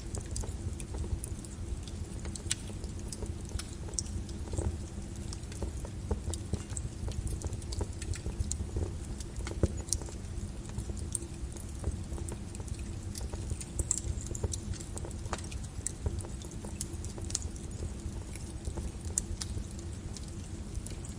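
Small wood fire crackling in a fireplace: irregular sharp pops and snaps over a low, steady rumble of burning.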